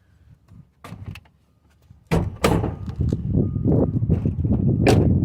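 1993 Chevrolet C1500 pickup door being worked: a latch click about two seconds in as it opens, handling rattles, then a sharp latch click near the end as it shuts. The door closes and latches without needing a slam.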